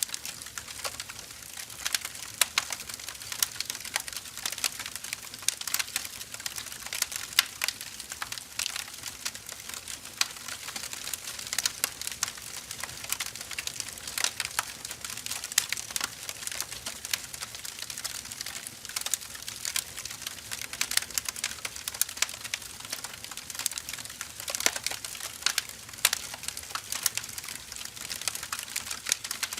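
Firewood burning in a fire, crackling with many irregular sharp snaps each second over a soft steady hiss.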